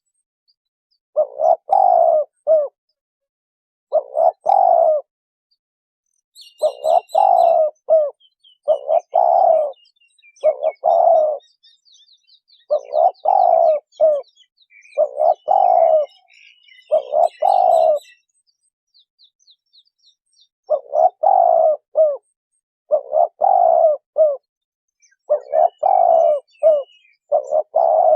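Spotted dove cooing: short phrases about a second long, given in pairs every second or two, with a brief pause about two-thirds of the way through. Smaller birds chirp faintly and higher through the middle and near the end.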